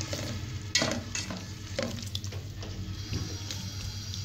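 Shredded boiled beef frying in oil in a steel pot, sizzling while a plastic slotted spatula stirs it, with repeated scrapes of the spatula against the pot, the sharpest about three quarters of a second in.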